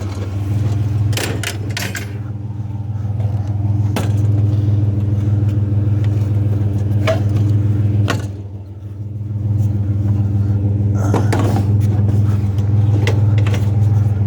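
Vehicle engine running steadily as it pulls out and drives, with a low hum that eases briefly about two-thirds of the way through. Scattered clicks and rattles sound over it.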